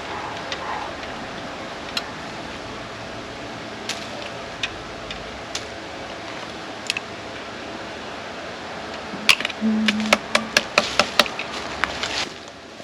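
Sharp knocks or clicks, a few scattered at first, then a quick run of about eight in under two seconds near the end, over a steady background hiss.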